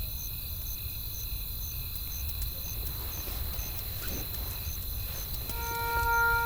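Crickets chirping, a short high chirp about twice a second, over a low steady rumble. Near the end, sustained bell-like music tones come in.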